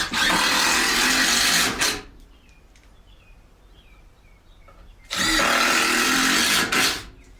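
Power drill boring holes into wood, running at full speed in two bursts of about two seconds each, the second starting about five seconds in.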